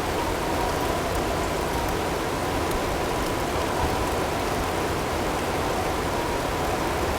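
Recorded snowstorm ambience: steady blizzard wind noise with sparse faint ticks of hail. A faint, constant tone is mixed in underneath.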